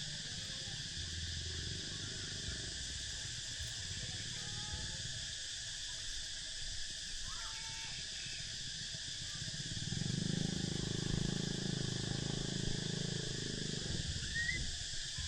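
Steady high-pitched drone of insects, with a few faint, short bird calls. A low hum swells about ten seconds in and fades near the end.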